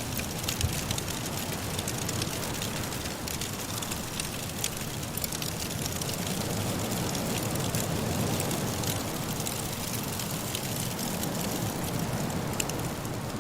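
Wood fire crackling in a fireplace, a steady hiss full of small pops, over the whoosh of blizzard wind that swells up in the middle.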